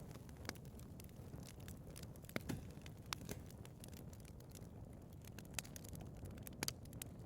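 Wood fire burning in a fireplace: a low steady rumble of flames with irregular crackles and pops, a few sharper pops standing out.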